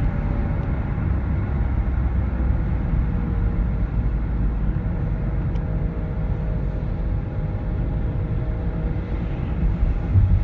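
Car engine and drivetrain running, a steady low rumble with a faint tone that slowly drops in pitch. This is the extraneous noise the owner hears from about 1500 rpm upward, and its cause is unknown. A brief low thump comes near the end.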